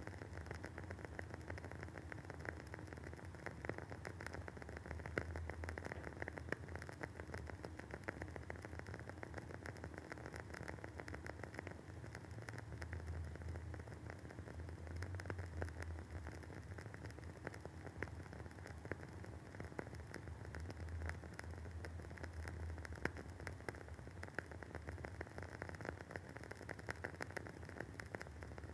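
Wooden wick of a WoodWick candle burning with a soft, continuous crackle of many small fast pops, over a low steady hum.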